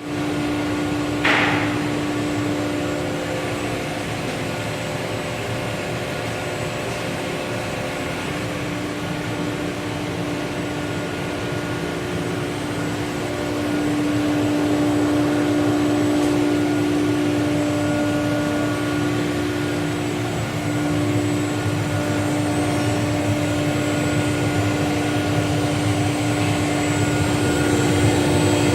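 Vacuum pump for a CNC router's vacuum table running with a steady hum, which grows a little louder about halfway through. A short hiss comes about a second in.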